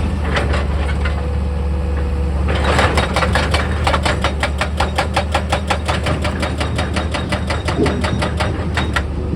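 Heavy excavator's diesel engine running steadily. From about two and a half seconds in until near the end there is a fast, even series of sharp knocks, about five or six a second.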